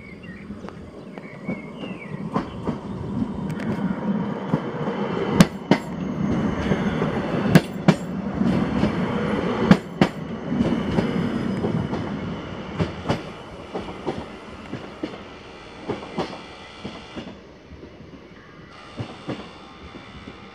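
ŁKA Stadler Flirt electric multiple unit pulling out of the station, wheels clicking over rail joints and points. The running sound swells to a peak about halfway through, then fades as the train moves away.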